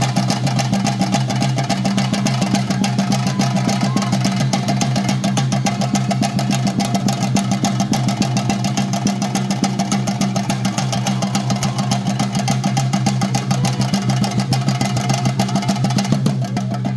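Chenda drums played in fast, unbroken strokes, with a steady low hum under the drumming.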